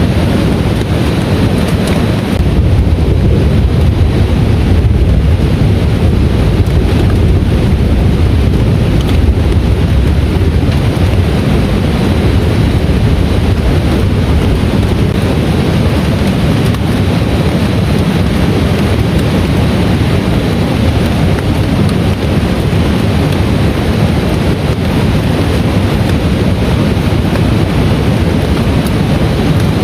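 Heavy rain pouring steadily, a dense even noise heaviest in the low range, a little louder from about two to ten seconds in.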